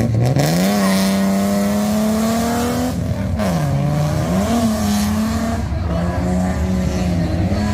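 Car engine revving hard during a drift run: the pitch climbs over the first second and holds high, drops sharply about three seconds in, then rises again and keeps wavering as the throttle is worked.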